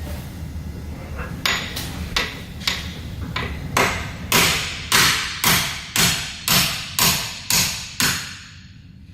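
Hammer blows, about fifteen in a row. They start light and grow heavier into a steady pace of about two a second, each with a short ring-out, then stop about a second before the end.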